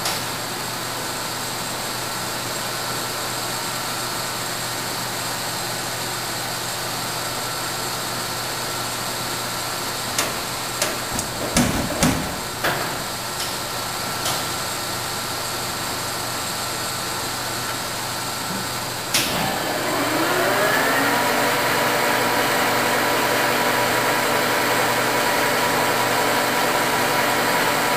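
Nardini AM 3280 engine lathe running with a steady machine hum. A few knocks come about ten to thirteen seconds in. Near 19 s a sharp clunk is followed by the spindle speeding up: its whine rises over a couple of seconds, then holds steady at a higher pitch and louder level as the lathe is run at a different spindle speed.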